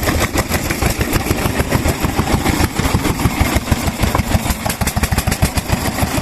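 Vintage stationary kerosene engine running, its exhaust firing in rapid, slightly uneven beats.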